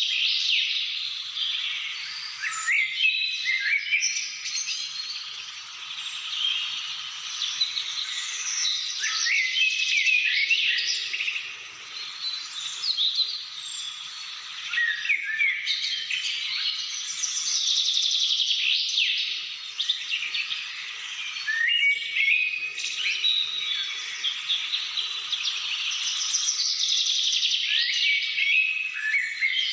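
Several birds chirping and whistling at once in overlapping short, high calls, with no pause.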